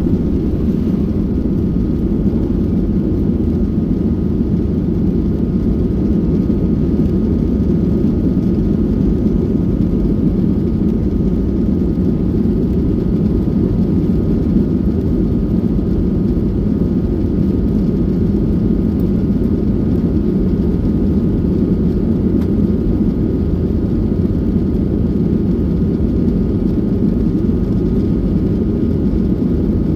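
Steady cabin noise inside a Boeing 737-800: a constant low rush of engine and air noise from its CFM56-7B turbofans, with a few faint steady tones above it.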